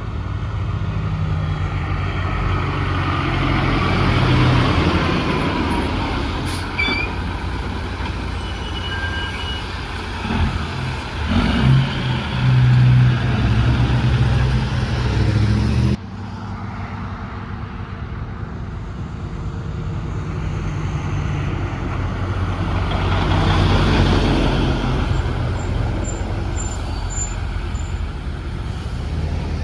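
Heavy trucks driving past, their diesel engines running and tyres humming, swelling and fading as each one goes by. A strong, low engine note about halfway through ends abruptly.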